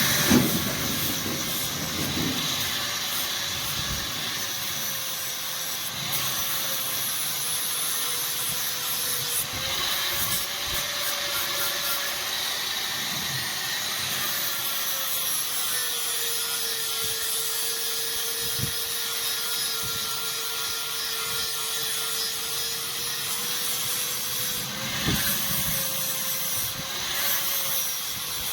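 Electric grinder grinding the steel of a knife blade: a continuous gritty hiss over a steady motor tone that sags and recovers as the work is pressed against it.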